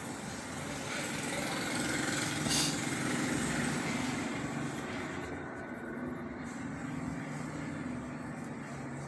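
A motor vehicle passing by: engine and road noise swell to a peak about three seconds in, then slowly fade.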